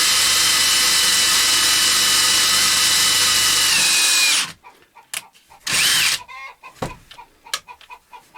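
Electric drill running steadily while drilling a hole to be tapped, its pitch sagging slightly just before it stops about four seconds in. Then a few light clicks and a brief burst of the drill spinning up and back down.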